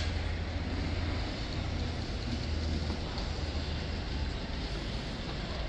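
Steady low rumble and hiss of railway station ambience, with a train approaching in the distance.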